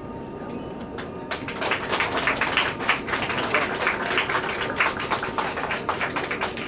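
The last held note of the song fades out, and about a second in a small group of listeners starts clapping, going on steadily.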